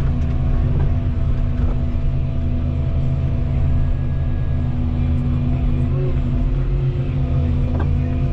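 Volvo 235EL tracked excavator running steadily, its diesel engine rumbling under a steady hydraulic whine.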